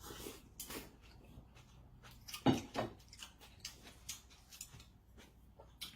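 Scattered light clicks and taps of utensils against a dish, with the sharpest tap about two and a half seconds in.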